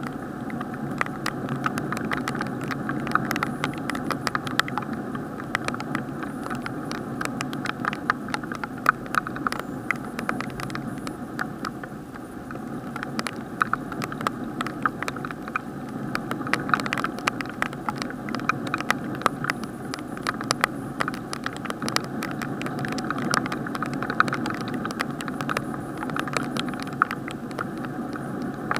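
Rain heard from inside an action camera's sealed waterproof housing: a steady muffled hiss, with many irregular sharp ticks as raindrops strike the casing.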